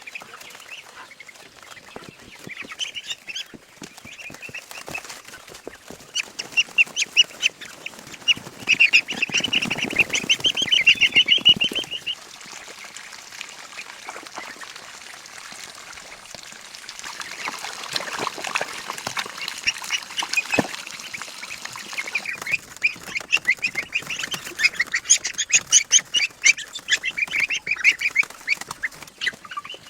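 Poultry calling in rapid runs of repeated notes, in two loud spells, one in the first half and one near the end.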